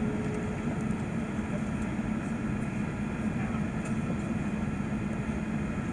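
Steady cabin noise inside an Airbus A380: a constant low drone from the engines and air, unchanging throughout.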